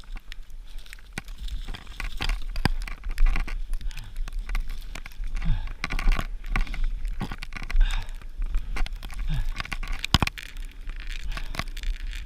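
Dry, dead spruce twigs and branches snapping and crackling irregularly as they are broken off by hand, over a steady low rumble of wind on the microphone.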